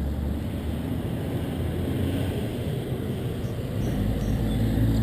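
A low, uneven rumble that grows louder near the end.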